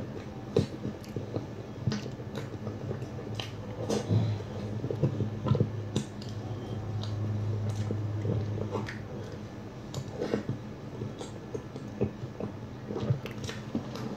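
Close-up eating sounds: irregular wet chewing and mouth smacks, with a low steady drone for several seconds in the middle.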